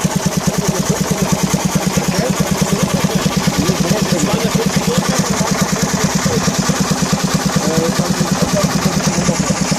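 Beaumaris three-cylinder steam boat engine running steadily, its exhaust beating in an even, rapid rhythm of about ten beats a second.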